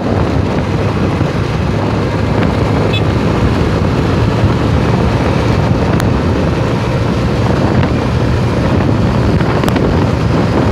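Tuned Honda Biz 125 motorcycle ridden flat out: loud, steady wind rush over the microphone, with the small single-cylinder engine running hard underneath, holding an even pitch.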